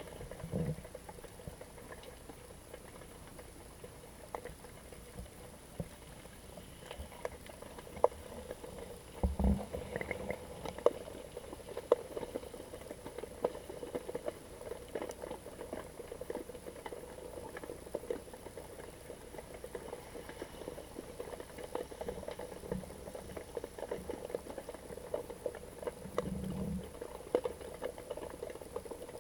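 Underwater sound picked up through a GoPro's waterproof housing: a steady faint crackle of scattered small clicks, with a few dull low thumps now and then.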